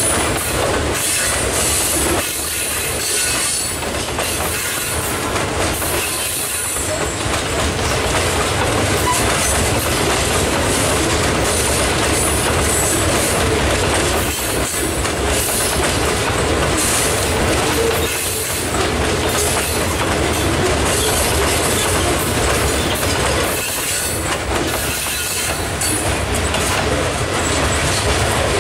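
Loaded rock-train hopper cars rolling slowly past, their steel wheels clicking over the rail joints, with steel wheel squeal that comes and goes.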